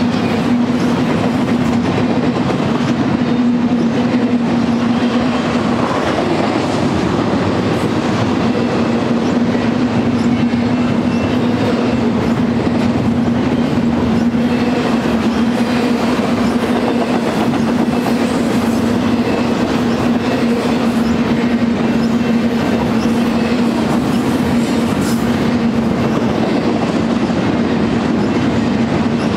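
Double-stack intermodal freight train's container-laden well cars rolling past, a loud, steady rumble of steel wheels on rail with clickety-clack and a steady low hum underneath.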